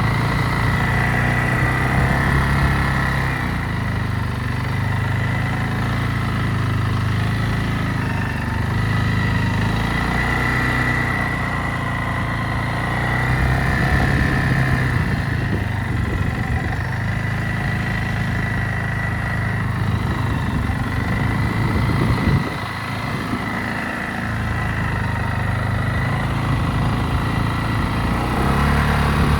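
ATV engine running, its pitch rising and falling with the throttle, with a steady high whine over it. It eases off briefly about two-thirds of the way through, then picks up again.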